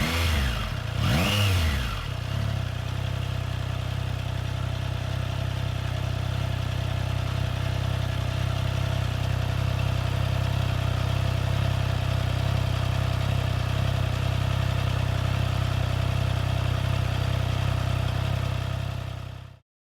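Motorcycle engine blipped, revs rising and falling over the first couple of seconds, then settling into a steady idle. It cuts off suddenly near the end.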